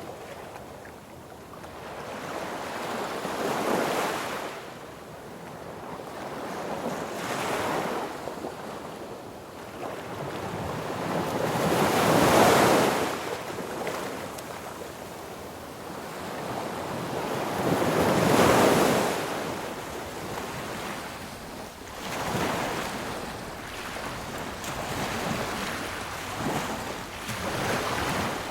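Sea waves breaking on a beach, the surf rising and falling in slow surges every few seconds; the two biggest break about twelve and eighteen seconds in.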